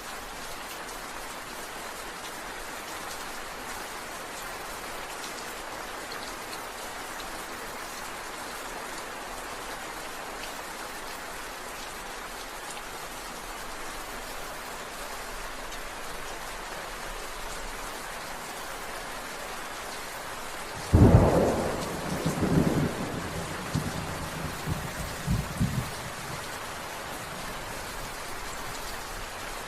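Steady rain falling, with a sudden loud thunderclap about two-thirds of the way in that rolls on as a few rumbles for several seconds and then fades back into the rain.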